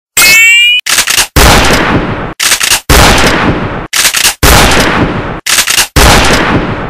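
Gunshot sound effects: a short rising whine at the start, then four loud, heavy shots about a second and a half apart, each with a long echoing tail. Quick clusters of sharp cracks come between them.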